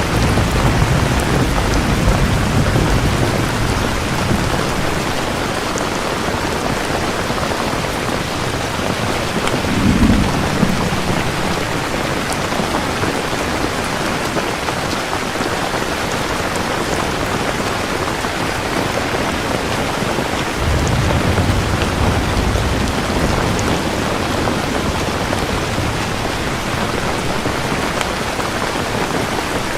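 Steady heavy rain falling, with rolls of thunder: a low rumble in the first few seconds, a sharper crack of thunder about ten seconds in, and another long rumble a little past the middle.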